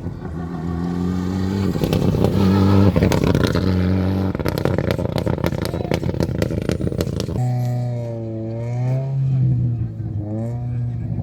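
Rally car engine running hard at high revs, its note shifting in steps, with many sharp clicks like stones striking the car. In the last few seconds the revs swoop up and down.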